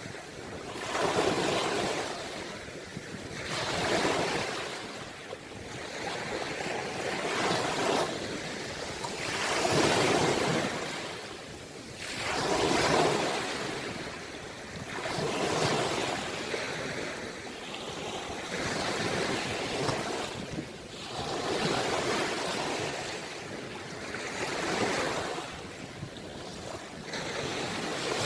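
Ocean waves breaking and washing on the shore, the surf swelling and falling back every few seconds.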